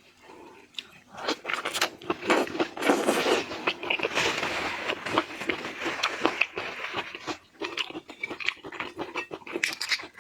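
Close-miked crunching, biting and chewing as a very large shrimp is eaten, with a dense run of irregular crackles and clicks starting about a second in.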